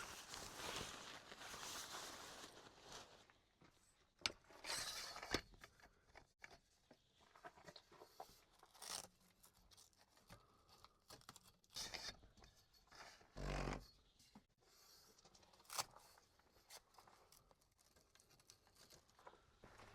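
Faint rustling, scraping and small clicks of things being handled, with one short low thump about two-thirds of the way through.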